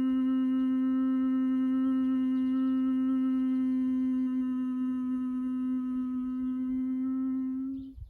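A person doing Bhramari (humming bee breath) pranayama: one long closed-mouth hum held at a single steady pitch, which ends just before the close as the exhale runs out.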